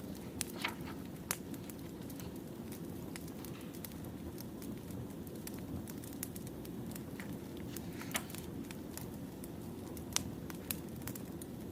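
Firewood burning, crackling, with sharp irregular pops scattered over a steady low background noise.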